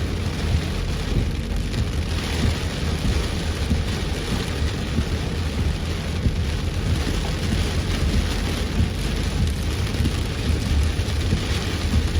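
Heavy rain pouring on a moving car, a steady dense hiss over a constant low rumble.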